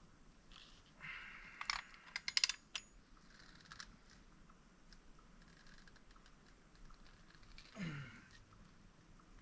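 A quick run of sharp clicks and rattles from small parts or tools being handled, over a brief scraping hiss. A short falling squeak comes near the end.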